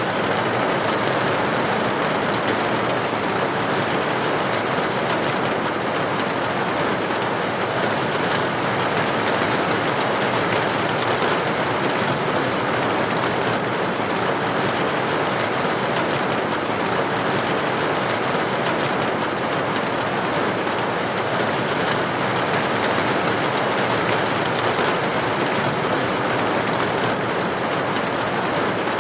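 Steady rain falling on a window: an even, unbroken hiss of drops.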